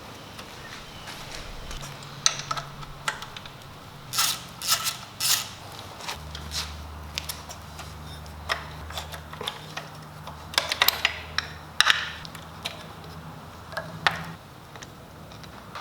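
Scattered metallic clicks and clinks of hand tools and bolts being handled during motorcycle disassembly, some in quick clusters, over a low steady hum.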